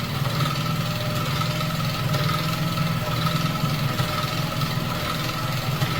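Pfaff 130 sewing machine running steadily at speed, sewing pattern stitch 5: a low motor hum with a fast, even needle-bar clatter. The rear pattern-cam attachment swings the stitch-width lever back and forth.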